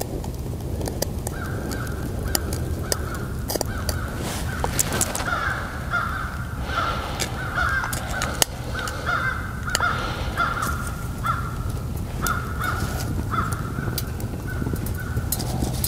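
A bird calling over and over from about a second in, a long run of short calls about two a second, over sharp crackles and snaps from a twig fire catching in a small wood-burning camp stove.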